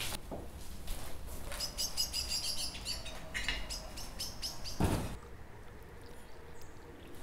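Small birds chirping in a quick run of short high calls for about two seconds, then a single thump.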